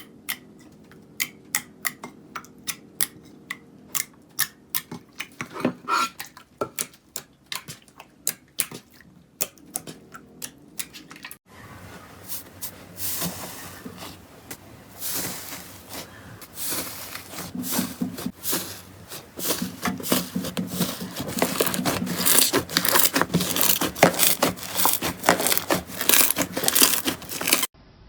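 Slime being pressed and worked by hand: sharp separate popping clicks a couple of times a second, then, after a cut about eleven seconds in, louder, denser crackling and crunching.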